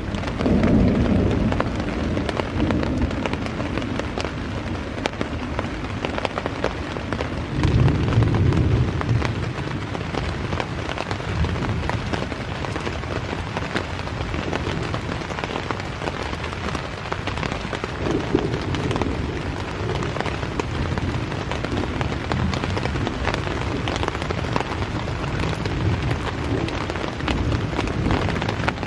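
Heavy rain falling, with low rolls of thunder about a second in and again around eight seconds.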